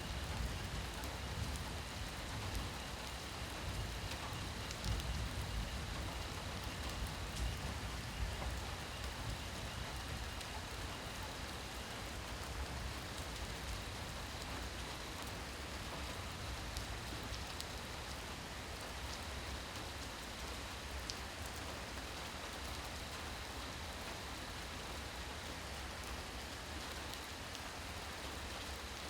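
Steady rain falling, with scattered sharper drops ticking through it.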